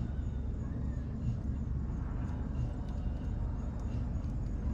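Wood bonfire burning, with faint scattered crackles over a steady low rumble.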